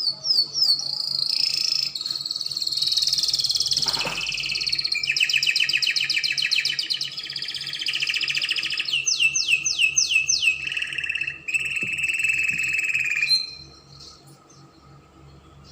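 Spanish Timbrado canary singing a long song of fast rolling trills and repeated downward-gliding notes, stopping about two seconds before the end.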